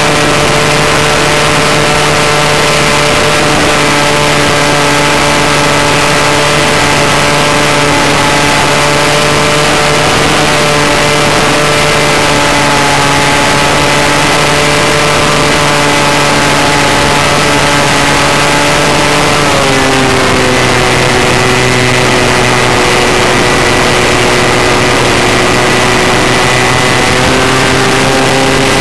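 Engine of an RC model airplane running steadily at cruise, heard from a camera on board, with a rushing hiss of wind and propeller over it. About two-thirds of the way through, the engine note drops a little as the throttle is eased back, then holds at the lower pitch.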